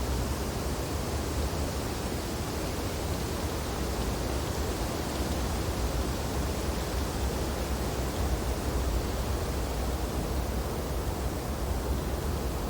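Steady wind blowing through snowy tree branches: an even rushing noise, heaviest in the low rumble, with no separate gusts or other events.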